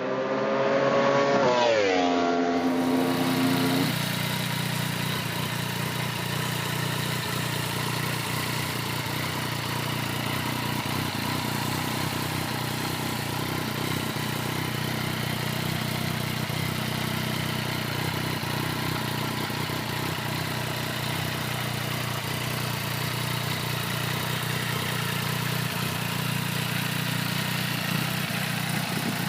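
Yamaha MT-09's inline three-cylinder engine breathing through a titanium 3-into-1 full exhaust. The revs rise in the first couple of seconds, fall back by about four seconds in, and then the engine idles steadily with a deep, even exhaust note.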